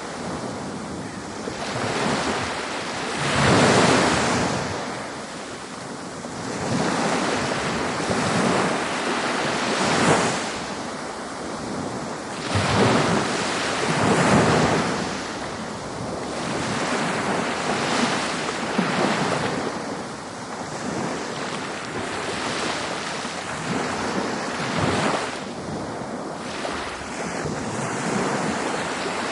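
Ocean waves breaking on a beach, continuous surf hiss that swells with each wave every few seconds.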